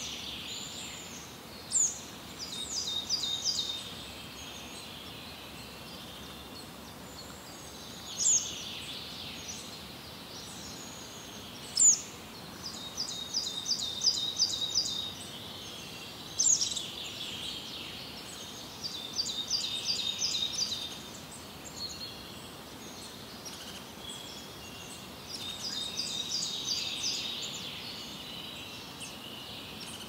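Songbirds singing in bursts every few seconds: quick runs of short, high notes, broken now and then by a single sharp whistle, which is the loudest sound.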